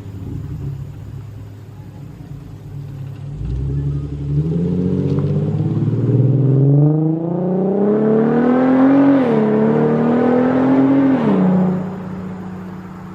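Infiniti Q50 with its mufflers deleted (axle-back exhaust) idling, then accelerating with a rising exhaust note. The pitch dips briefly at one gear change, climbs again, and drops back to a steady low note as the throttle is released near the end.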